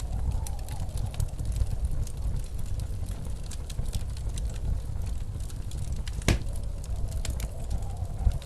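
Wood fire in a fireplace crackling, with many small snaps and one sharper pop about six seconds in, over the steady low rumble of blizzard wind. A faint howl of wind rises and falls near the start and again near the end.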